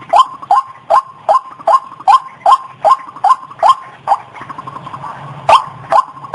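White-breasted waterhen (ruak-ruak) calling: a rapid series of short rising notes, about two and a half a second, that breaks off for about a second and a half near the middle and then resumes.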